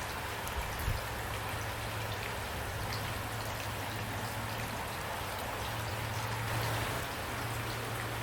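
Steady rain falling, individual drops pattering over an even hiss, with a steady low hum underneath and a single soft thump about a second in.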